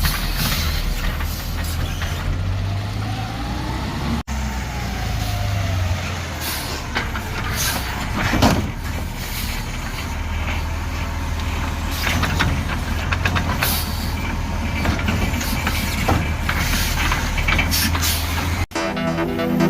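Garbage truck's diesel engine running with a steady low hum, overlaid with scattered clanks and bursts of noise from the truck at work. The sound breaks off abruptly twice, and music starts near the end.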